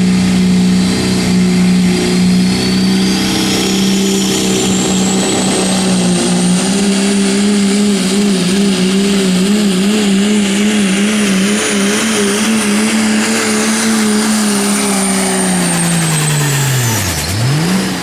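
Pulling truck's engine held at high revs under heavy load, with a high whine that climbs over the first few seconds and then holds. The engine pitch wavers in the middle, and near the end the revs fall away sharply as the pull ends.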